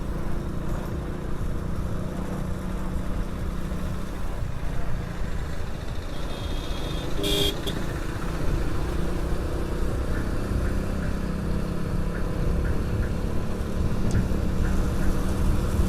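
Hero HF Deluxe motorcycle on the move: steady engine hum with wind and road noise. A short vehicle horn beep sounds about seven seconds in.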